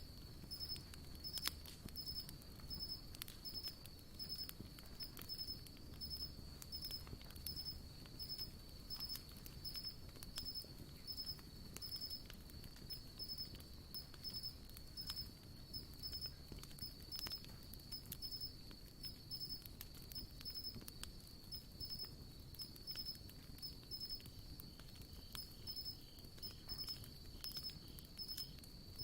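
Campfire wood crackling with scattered small pops, one sharper pop about a second and a half in, over a steady high insect chirping that pulses at an even pace.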